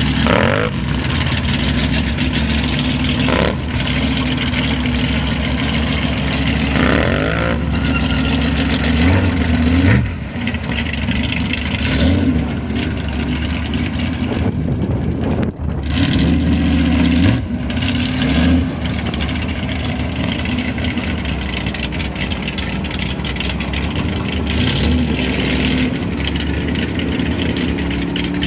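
Truck engines running and revving, the pitch sweeping up several times as the throttle is blipped, with more than one engine heard at once.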